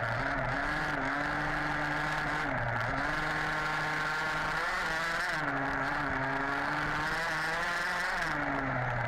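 HPI Baja 5B's two-stroke petrol engine running on and off the throttle, its revs dipping and climbing back several times.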